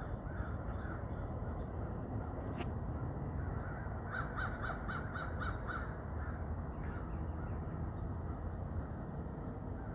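Crows cawing from a large flock passing overhead, with a quick run of about seven caws in the middle, over a steady low rumble.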